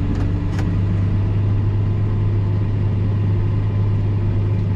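Diesel engine of a heavy earthmoving machine running steadily, a constant low drone, with two faint clicks in the first second.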